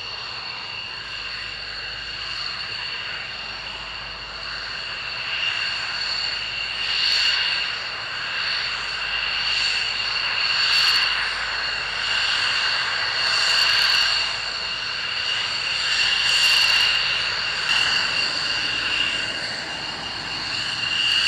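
Jet aircraft engine whine: two steady high tones over a rushing noise that swells and fades every second or two, growing louder from about six seconds in.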